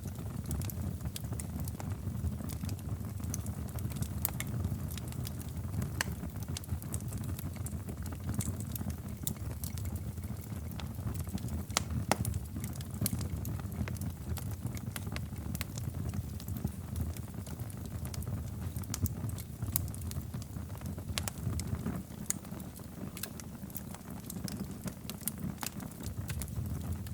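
Wood fire crackling in a fireplace: a steady low rush of flames with frequent irregular sharp crackles and pops.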